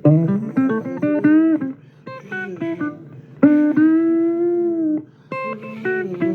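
Blues guitar playing an instrumental intro: quick single plucked notes and short runs, some slightly bent upward, with one long held note about three and a half seconds in.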